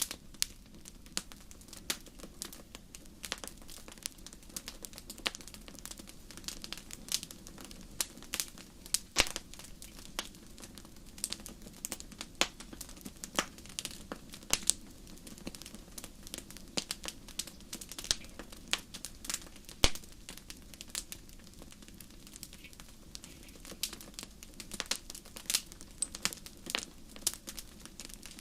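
Wood fire burning in a fireplace, crackling and popping with irregular sharp snaps over a low, steady rush of flame.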